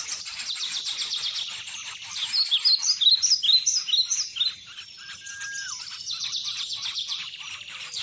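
Birds chirping: a fast, high twitter throughout, with a quick run of short falling whistled notes in the middle and, later, a single held whistle that drops in pitch at its end.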